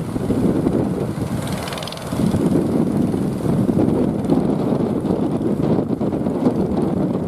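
Strong wind buffeting the microphone: a loud, uneven low rumble that dips briefly about two seconds in.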